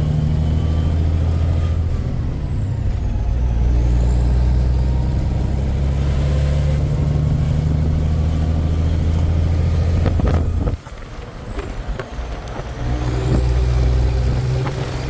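Kenworth K100 cab-over truck's diesel engine heard from inside the cab, running steadily under load. Its sound drops off sharply about eleven seconds in, with a few knocks, then picks up again a couple of seconds later.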